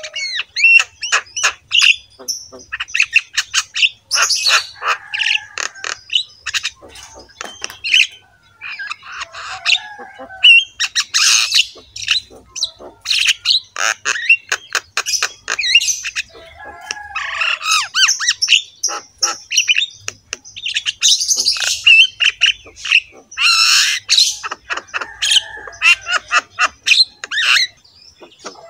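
Many birds squawking and chirping at once, short loud calls overlapping in quick succession throughout.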